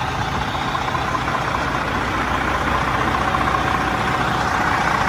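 Diesel engine of a 2006 Sterling dump truck idling steadily.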